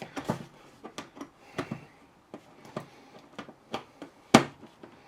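Light, irregular clicks and taps of a screwdriver and hands working on a suitcase's plastic telescopic-handle housing, with one much sharper click about four seconds in.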